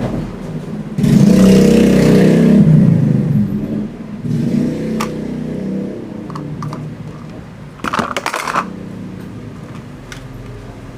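Toy vehicles being played with: a loud whirring, engine-like noise about a second in that lasts a couple of seconds, then scattered clicks and a short clatter near the end.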